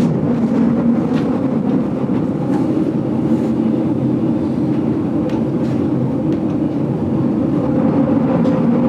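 Steady rumble of a vintage GoldenPass Belle Époque train running along the line, heard from inside the carriage, with a low hum and a few faint clicks from the wheels and rails.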